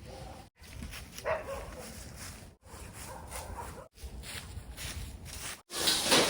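Dogs barking, heard in several short segments broken by abrupt silences, with a sharp bark about a second in and a louder burst near the end.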